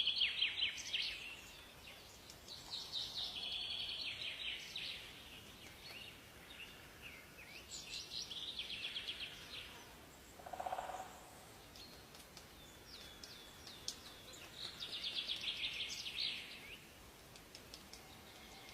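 Songbirds singing: a rapid phrase of high notes repeated every few seconds, with scattered single chirps between and one short, lower call about ten seconds in, over a faint steady hiss.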